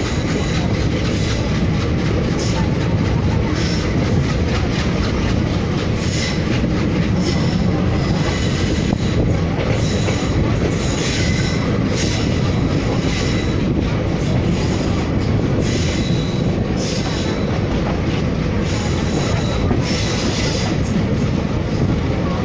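Moving train running along the track: a steady, loud rumble of wheels on the rails, with repeated clacks and a faint high steady whine.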